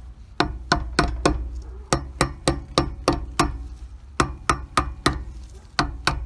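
Brass hammer striking metal at a boat trailer's wheel hub, knocking at an old part to drive it off: a steady run of sharp blows, about three a second, with a short pause past halfway.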